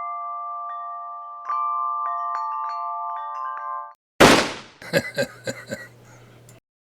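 A short jingle of struck, ringing mallet-percussion notes, glockenspiel- or chime-like, held in chords. About four seconds in it gives way to a loud whoosh that falls away, followed by a run of sharp clicks and knocks over a low hum.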